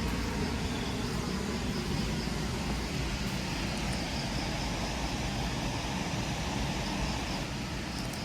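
Steady rushing roar of a waterfall. A faint, rapid high chirping trill comes through in the middle.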